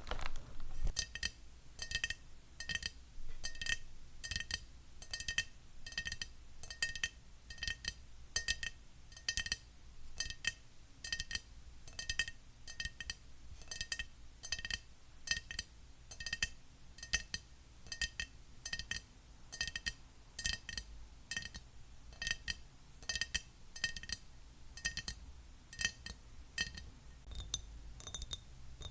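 Fingernails tapping on a glass object in a steady run, a little under two taps a second, each tap leaving a short clinking ring. Near the end the ring changes to a single higher note.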